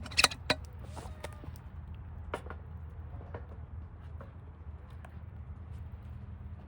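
Scattered sharp clicks and knocks, with two loud ones just after the start, over a steady low rumble.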